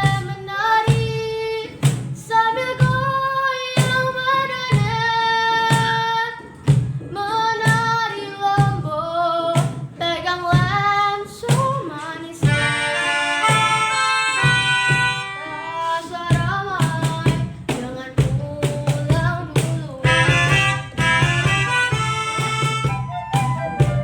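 Children singing a Maluku folk song with instrumental accompaniment and a steady beat, with a short passage in the middle where the instruments carry the tune.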